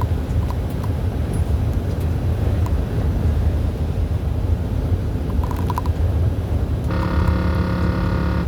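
Truck running with a steady low rumble. In the last second and a half a steady pitched tone sounds over it and cuts off abruptly.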